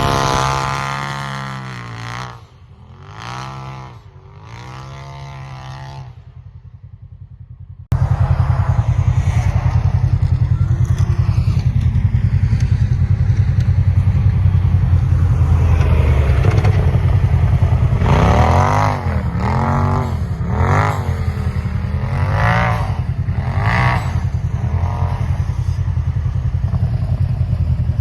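Polaris RZR Pro XP's turbocharged twin-cylinder engine revving up and down, quieter for a few seconds. It then cuts abruptly to loud, steady running under throttle, with a run of quick rev rises and drops later on.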